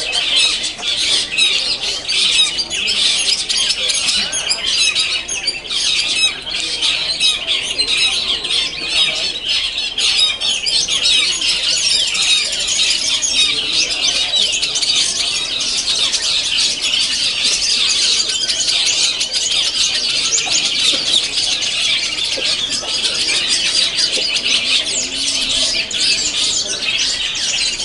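Many caged long-tailed shrikes (cendet) singing at once: a dense, unbroken chorus of shrill, chattering calls and song phrases overlapping one another.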